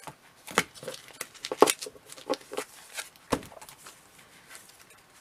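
Comic books being handled and set down: plastic bags crinkling, with a few sharper knocks among scattered light clicks and rustles.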